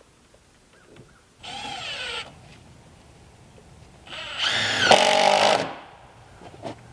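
Power drill run in two bursts, the first under a second long and the second about a second and a half and louder, its whine rising and falling in pitch with the trigger.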